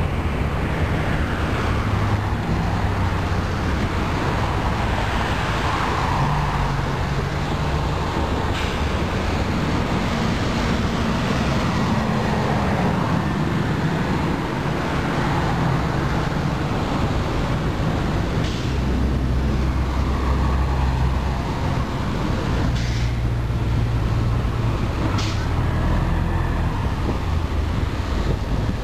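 Long circus train of silver passenger and baggage cars rolling past on the rails: a steady rumble of wheels on track, with a few sharp clicks.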